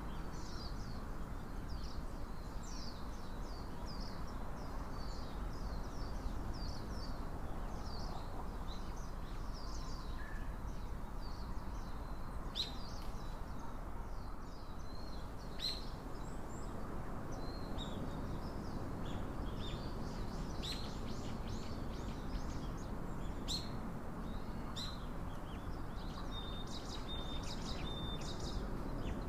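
Small wild birds chirping, with many short high chirps and calls throughout. A few sharper calls come about a third and halfway through, and a thin, repeated high note sounds near the end. Underneath runs a steady low outdoor rumble.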